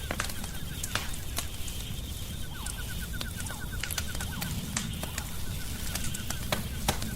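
Wood fire crackling, with frequent sharp pops and snaps over a low rumble of burning. A fast, evenly repeated high chirping runs in the background about midway and again at the end.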